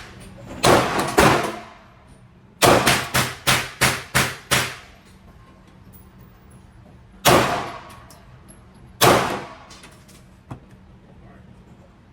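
Indoor range gunfire from a 9mm Glock 45 pistol, each shot echoing off the walls. There are two shots, then a fast string of about eight shots in two seconds, then two single shots about two seconds apart.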